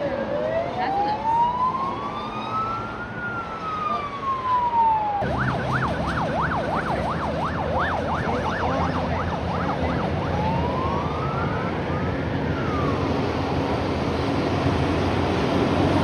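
Emergency vehicle siren sounding a slow rising-and-falling wail, switching about five seconds in to a rapid yelp of several sweeps a second, then back to a slow wail that fades into the rumble of passing traffic.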